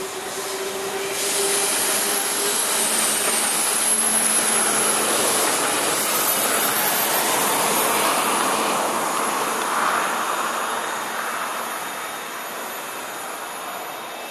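DSB IC3 diesel multiple unit passing by: a steady rushing noise that swells to its loudest in the middle and fades toward the end.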